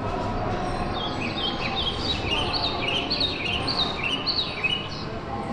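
A songbird singing a quick run of short, repeated high chirps, starting about a second in and stopping near the end, over a steady low rumble.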